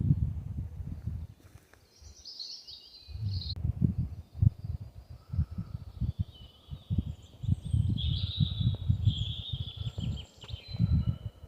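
Wind buffeting the microphone in uneven low gusts, while small songbirds sing high warbling phrases, one about two seconds in and more through the second half.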